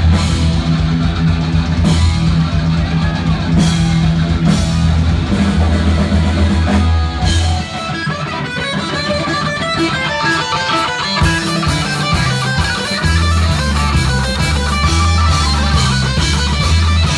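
Heavy metal band playing live: distorted electric guitars over bass and drum kit. About seven and a half seconds in, the bass and drums drop away, leaving the guitar alone, and the full band comes back in a few seconds later.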